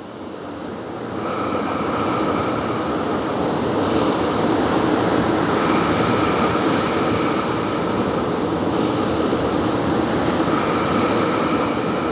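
A loud, steady rushing rumble with an even high squeal over it, like a passing train's wheels on the rail. It builds over the first two seconds, then holds.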